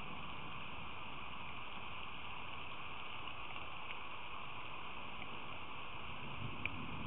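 Steady rain falling, an even hiss with a couple of faint ticks of drops landing near the microphone.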